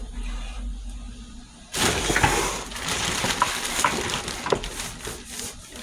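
Kitchen things being handled: about two seconds in, a sudden clatter of crackling and rustling starts, with sharp clinks, and it keeps going.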